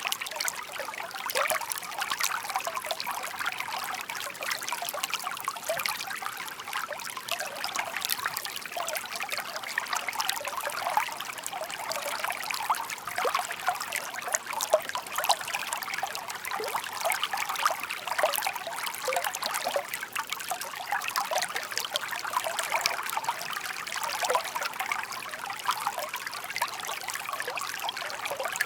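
Shallow stream babbling steadily, small water splashes and trickles over stones.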